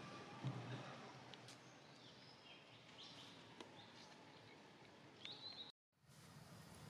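Faint outdoor ambience with a few short, high chirps, and a brief total dropout of the sound shortly before the end.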